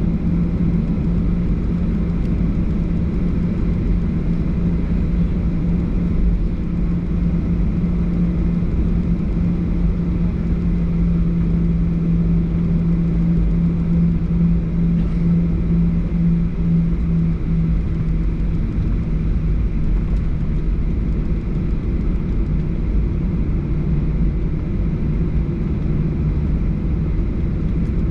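Boeing 737-800's CFM56 jet engines heard from inside the cabin: a loud, steady rumble with a low hum that drops slightly in pitch about 18 seconds in.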